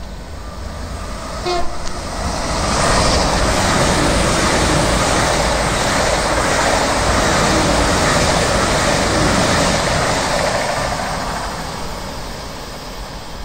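A train horn gives one short toot, then a train passes. Its rushing rumble builds, holds for several seconds and fades away near the end.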